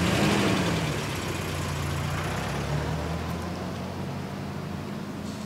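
Engine of a UAZ Hunter police off-roader idling steadily.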